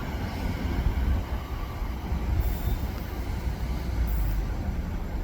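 Great Western Railway passenger train pulling out of the station, running with a steady low rumble.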